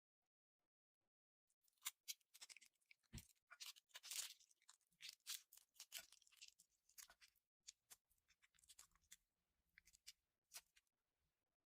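Slime being played with by hand: quick, irregular crackling and clicking pops that begin after about two seconds of near silence and come most thickly around the middle.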